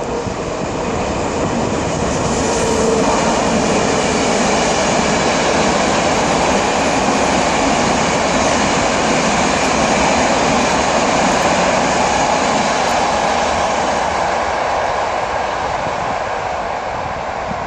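A train passing close by at speed: a loud, steady rush and rumble of wheels on rails that swells through the middle and eases slightly toward the end.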